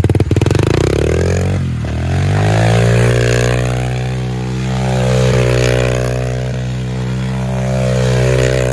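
Pit bike engine running at a low, pulsing idle, then revved up about two seconds in and held at a steady high rev.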